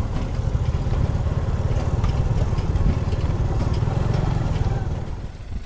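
An engine running steadily, with a dense low chugging and light mechanical clatter, falling away shortly before the end.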